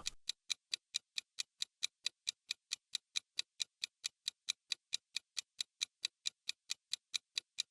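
Clock-ticking sound effect counting down the answer time, a steady run of sharp ticks at about four a second.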